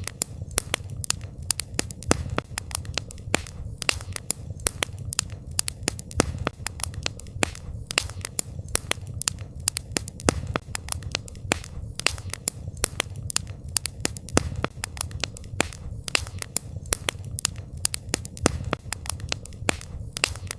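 Wood fire crackling steadily: many sharp irregular pops and snaps, several a second, over a low, steady rumble of the flames.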